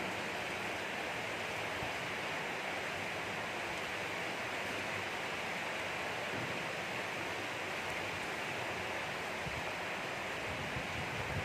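Gentle rain falling steadily, an even hiss.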